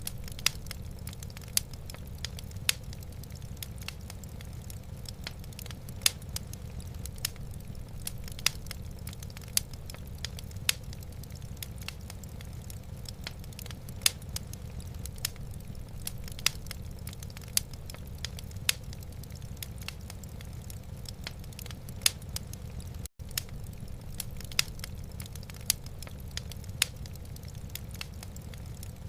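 Wood fire burning in a fireplace: sharp, irregular crackles and pops over a steady low rumble. The sound cuts out for an instant about 23 seconds in.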